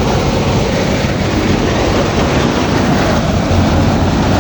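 Farm tractor engine running steadily under load, a continuous low hum with heavy mechanical noise.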